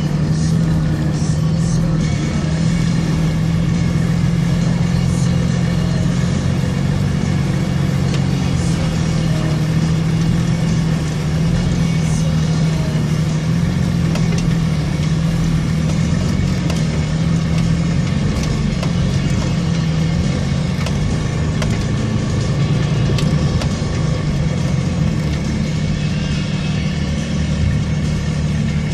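A vehicle's engine running steadily at low speed, heard from inside the cab as it crawls along a rough track: a constant low drone whose pitch wavers slightly, with faint knocks and rattles now and then.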